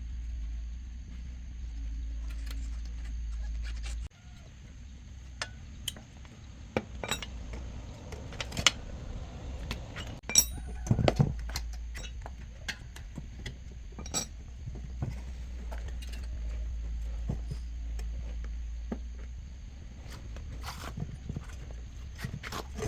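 Scattered metallic clinks and knocks, irregular and sharp, loudest around the middle, over a steady low hum.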